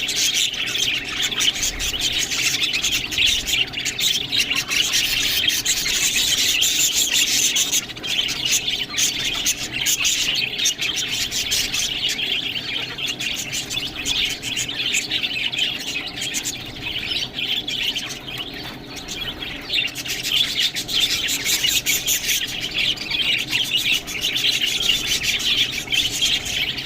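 Budgerigars chattering and chirping without a break, a dense stream of quick, high chirps and squawks.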